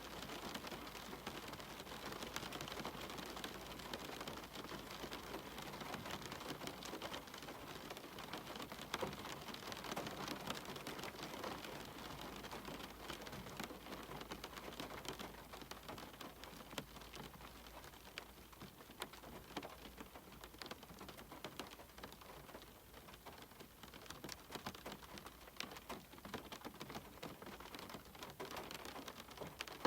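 Steady rain, with many individual drops tapping close by, easing slightly in the second half.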